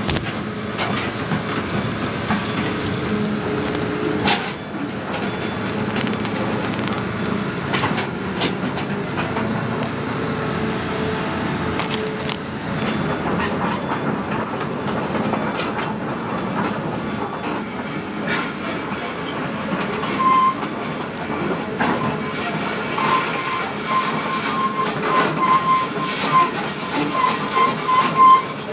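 Excavator at work, running steadily with scattered metallic clanks, and intermittent high-pitched squeals that come more often in the second half.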